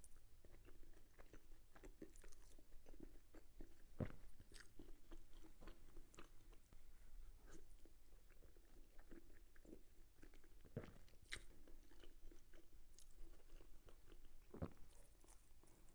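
Faint, close-miked chewing of a mouthful of meat-and-cheese lasagna: soft, wet mouth sounds with small clicks throughout, and a few sharper clicks about four, eleven and fifteen seconds in.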